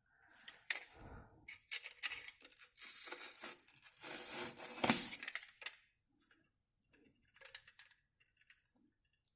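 Masking tape being peeled off the wall from under freshly glued fibreglass wallcovering, crackling and rustling in uneven pulls with small clicks for about six seconds, then only a few faint ticks.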